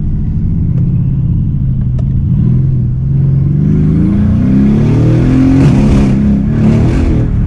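Mercedes-Benz CLS 63 AMG V8, remapped and fitted with changed downpipes and mid-pipes, heard from inside the cabin under hard acceleration with traction control set to Sport. The engine note is steady at first, then the revs climb in several rising pulls from about three seconds in. The wheels are spinning more than the driver dares to push.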